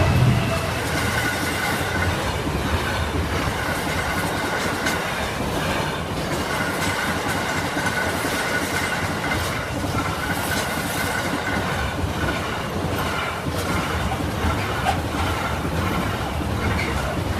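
Class 66-hauled intermodal freight train passing at close range. It is loudest at the very start, then the wagons' wheels rumble and clatter steadily over the rails with repeated clicks, and a thin high tone comes and goes.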